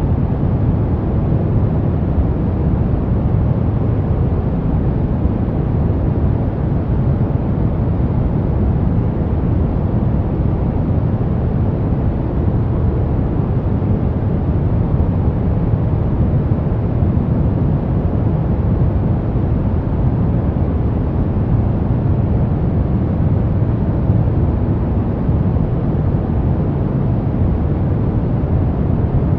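Pink noise: a steady, unchanging hiss weighted toward the low end, deep and even, with no tones or breaks.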